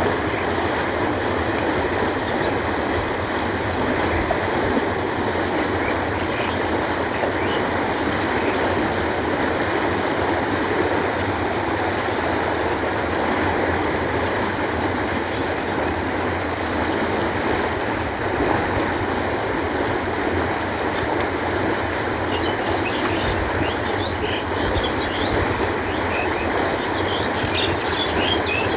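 Steady rushing of canal water flowing, an even, unbroken wash of sound. Small birds chirp briefly several times in the last third.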